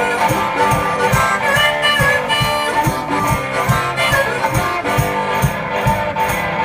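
One-man band playing an instrumental blues passage: harmonica over guitar, with a steady beat from foot-worked percussion.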